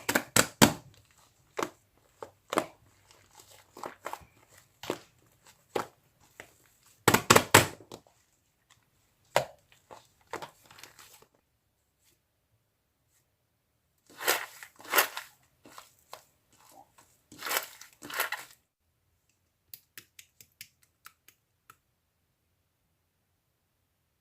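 Clear slime with shaving foam mixed in, being squished and stretched by hand: irregular clusters of wet crackling and popping with quiet pauses between, thinning to a few faint clicks near the end.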